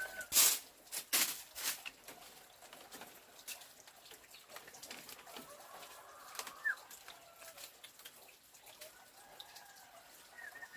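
Farmyard chickens and birds, with a few sharp knocks in the first two seconds, a short chirp midway, and a rooster crowing faintly near the end.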